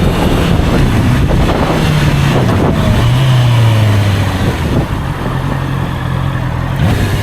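Honda CBR650R's inline-four engine running on the move, its note falling in pitch over the first three seconds and then holding steady, with wind noise on the microphone.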